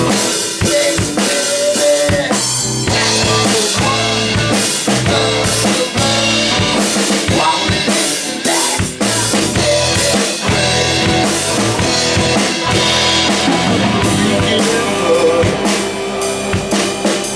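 Live rock band playing an instrumental passage with no vocals: a drum kit keeps a steady beat on bass drum and snare under held melody notes.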